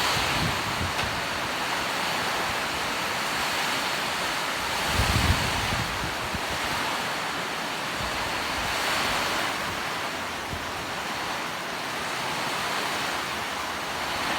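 Heavy rain pouring, a steady dense hiss, with a brief low buffet of wind on the microphone about five seconds in.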